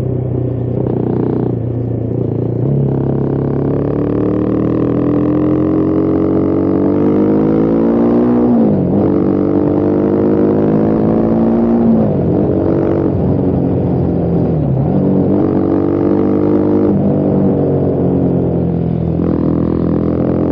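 Husqvarna Vitpilen 401's single-cylinder engine pulling under acceleration, its pitch climbing steadily and dropping sharply at each of about three quick gear changes.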